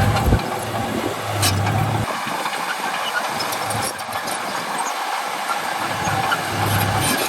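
Heavy diesel earthmoving machinery running. Its low engine hum drops away about two seconds in and comes back near the end, over a steady wash of noise, with a few light knocks.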